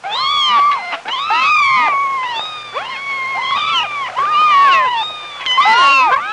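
Several kittens meowing over and over, their high, rising-and-falling calls overlapping one another; the sound cuts in abruptly.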